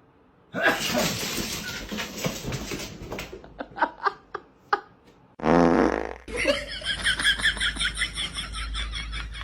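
A short buzzy fart-like sound about five and a half seconds in, followed by a person laughing in quick repeated pulses.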